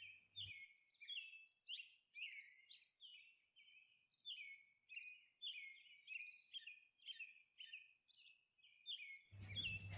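Faint bird chirping: a long series of short, high chirps, a couple or more each second.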